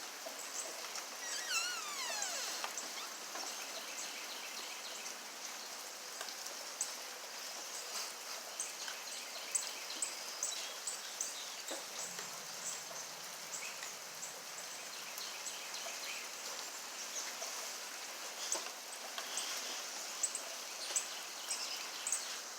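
Steady rainfall with many small drips pattering throughout. About two seconds in, a single call falls sharply in pitch.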